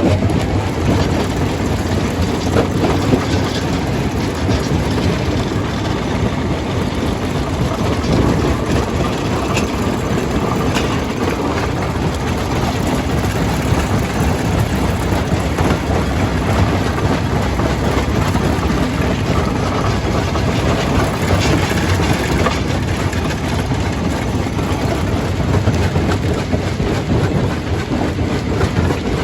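Primary jaw crusher running and crushing stone: a loud, steady mechanical rumble thick with the rattle and knock of rock breaking.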